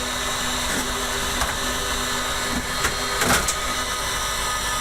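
Two electric heat guns blowing steadily, a constant whir with a hum, thawing ice off a freezer evaporator. A few short knocks come a little over three seconds in.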